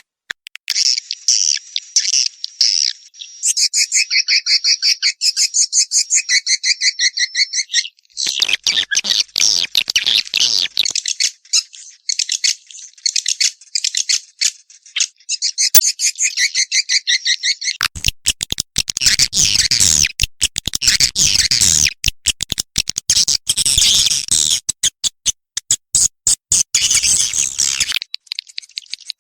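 Recorded swiftlet calls: rapid, chattering trains of high clicks and chirps from several birds overlapping. They break and restart, and grow denser from about two-thirds of the way in. These are the mating-excited calls played to attract swiftlets into a bird house.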